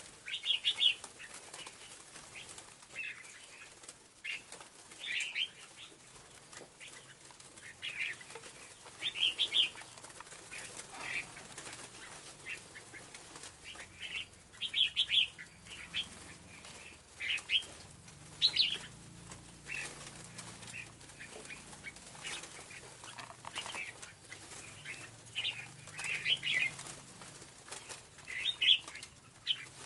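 Red flowerpecker (cabean merah) calls: short, high, sharp chirps in little clusters, repeated every second or two, used as a lure call to draw in other birds.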